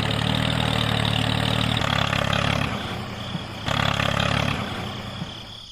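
Small engine running steadily with a low hum, cut short and resumed a few times.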